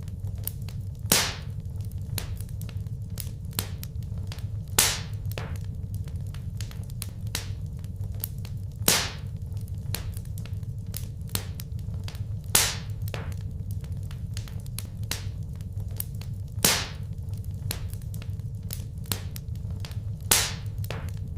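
Wood fire burning in a fireplace: a steady low rumble with constant small crackles, and a louder sharp pop about every four seconds, six in all.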